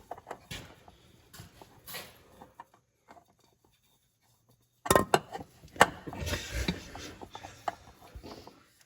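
Spin-on oil filter being turned by hand against its mount, scraping and clicking as it fails to catch the threads. Scattered rubbing and clicks, a pause of about two seconds midway, then louder rubbing with a few sharp clicks.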